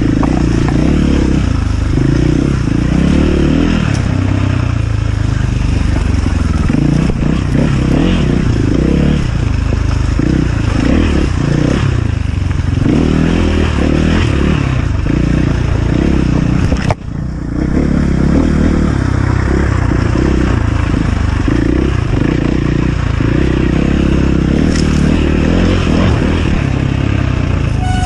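Enduro motorcycle engine running and revving up and down as the bike is ridden, dropping off sharply for a moment about seventeen seconds in.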